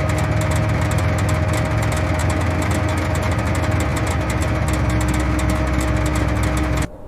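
Vehicle engine running steadily at idle, with a fast even ticking over a low hum. It cuts off suddenly near the end.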